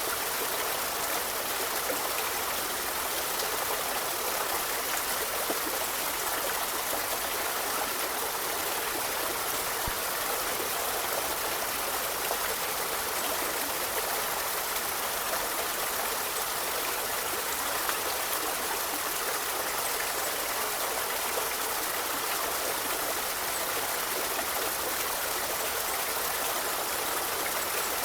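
A forest river or stream rushing steadily over rocks, an even splashing hiss with no break.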